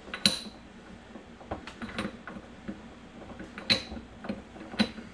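Sharp metal clicks and clinks of a straight-cut transmission gear being worked onto its shaft: one loud click right at the start, a few lighter taps, and two more loud clicks near the end.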